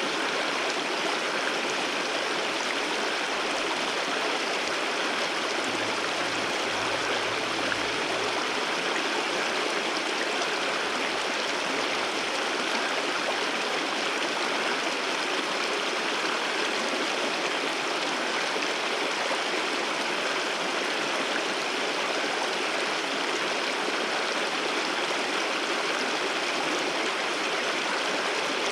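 Waterfall water pouring and splashing in a steady, even rush that does not change.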